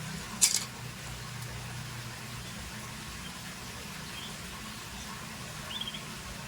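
Scotch Fancy canary giving a few faint, short high chirps, with one brief sharp noise about half a second in, over a steady low hum.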